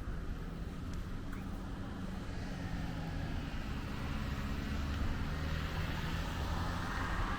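A motor engine running with a steady low hum, growing a little louder toward the end.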